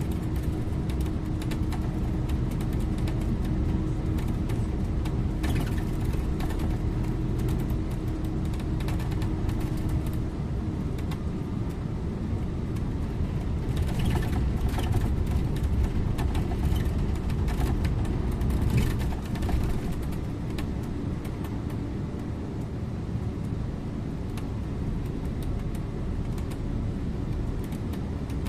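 Scania InterLink bus driving, heard from the driver's seat: a steady rumble of engine and road noise, with a few short rattles and clicks, and a little quieter in the last third.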